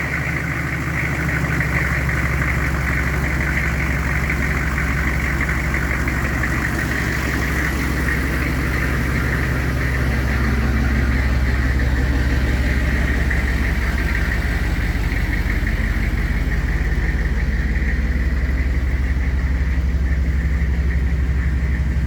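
GMC 3500HD's 6.5-litre V8 turbo diesel idling steadily just after a cold start.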